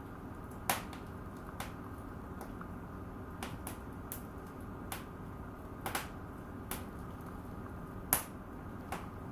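Wood fire in a fireplace crackling: irregular sharp pops over a low, steady background. The loudest pops come about a second in and near the end.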